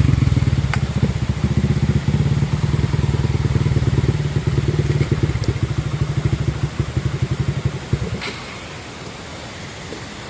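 Dirt bike engine running at low revs with a fast, even pulsing, then cutting out about eight seconds in with a sharp click, leaving a steady hiss.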